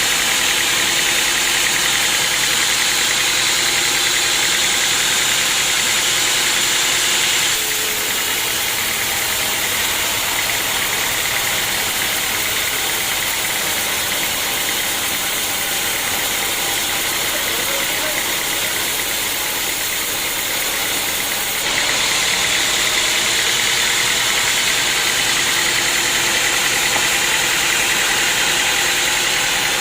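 Sawmill saw running steadily, a loud continuous high-pitched hiss and whine of machinery. It drops a little in level about seven and a half seconds in and comes back up about twenty-two seconds in.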